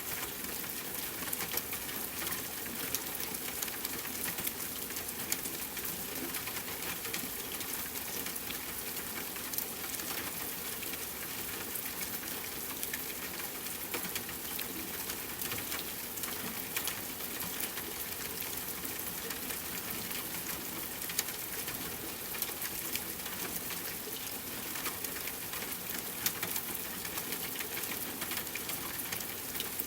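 Steady rain sound, an even hiss with many small sharp drop ticks scattered through it.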